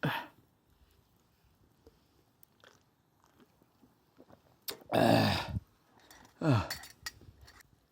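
A person eating, with soft chewing and mouth clicks, and two drawn-out voiced sounds with falling pitch about five and six and a half seconds in.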